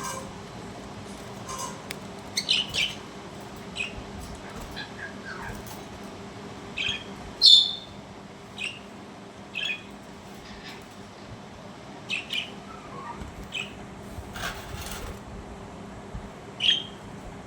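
Budgerigars giving short, scattered chirps and squawks, the loudest about halfway through, over a faint steady hum.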